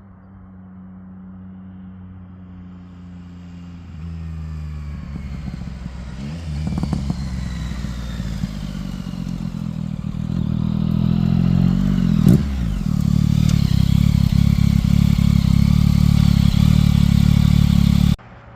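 Yamaha CP3 inline three-cylinder engine through a Spark aftermarket exhaust, building up and getting steadily louder, with a sharp crack about twelve seconds in. It runs loudest over the last several seconds, then cuts off abruptly just before the end.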